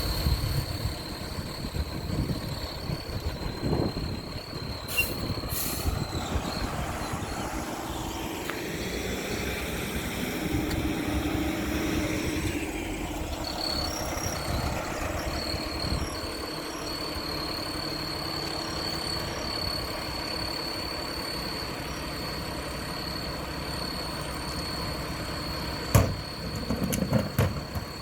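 Mack LR garbage truck's diesel engine running steadily, swelling briefly about ten seconds in, with a single sharp bang near the end.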